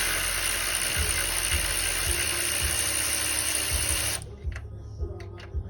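A steady hissing mechanical noise, like a shop tool running, that cuts off suddenly about four seconds in.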